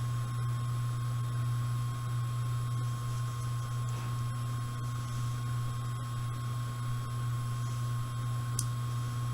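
Washing machine running in the background: a steady low hum with a thin, high-pitched whine over it. A single faint click near the end.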